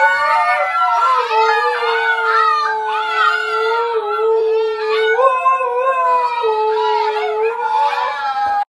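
An adult husky and a litter of husky puppies howling together: several overlapping, wavering howls, with one lower, steady held howl under the higher puppy voices. The chorus cuts off suddenly at the end.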